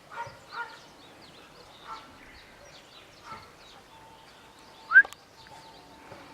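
Scattered short, faint animal calls, with one louder, short rising squeak about five seconds in.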